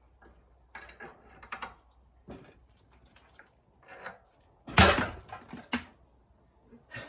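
A series of knocks and clunks as a heavy cast-iron engine is manoeuvred by hand into a Reliant Regal's chassis, with one loud thud about five seconds in.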